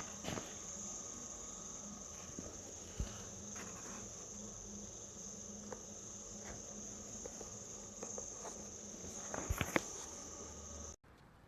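Insects trilling steadily in one high, unbroken tone, with a few faint clicks and knocks; the trill cuts off abruptly near the end.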